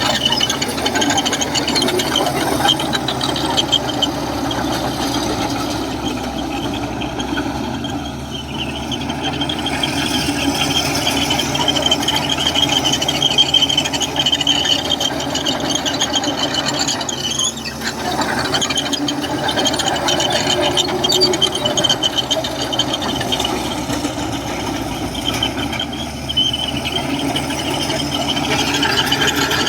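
Komatsu crawler bulldozer working: its diesel engine runs steadily while the steel tracks squeal and rattle as it moves.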